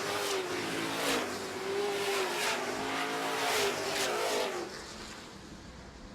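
A pack of dirt-track super trucks racing past, several engines running hard with their pitch rising and falling. It stays loud until about four and a half seconds in, then fades as the pack moves away.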